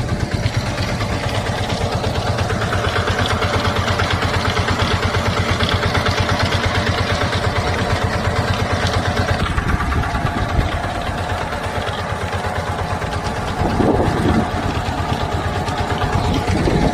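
YBM well-drilling machine's engine running steadily with a fast, even pulse while drilling for water, getting a little louder for a moment about three-quarters of the way through.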